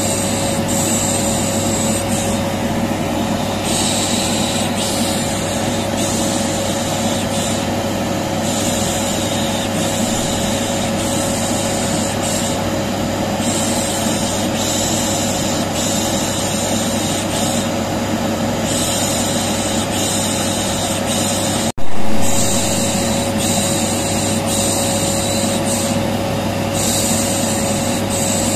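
Vacuum cleaner running steadily with a constant hum, overlaid with a rhythmic 'shh shh' hushing that comes and goes every second or two, white noise for soothing a colicky baby. About two-thirds of the way through the sound cuts out for an instant and comes back with a sharp loud jump, like a splice in the loop.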